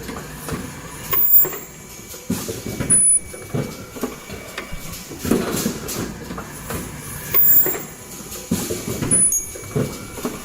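Automatic N95 cup mask machine running through its cycle. A burst of mechanical clatter repeats about every two seconds, each with a brief high-pitched tone.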